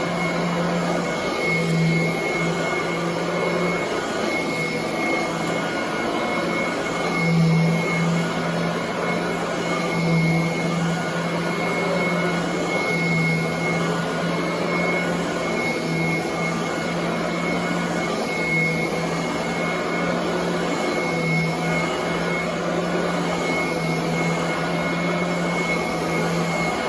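Royal commercial vacuum cleaner running steadily over carpet, with a constant hum and a thin high whine. The hum swells and eases every two to three seconds.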